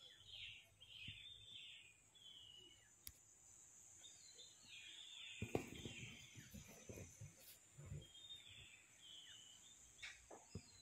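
Faint birdsong from trees: short chirping phrases in three spells, with quiet outdoor ambience between them.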